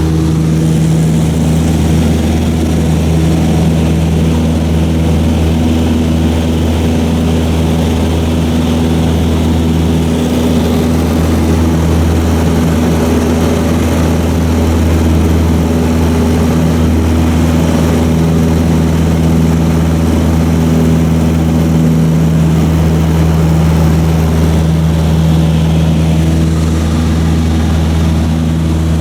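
Cessna 152's four-cylinder Lycoming O-235 engine and propeller running steadily at high power during takeoff and climb-out, heard from inside the cabin.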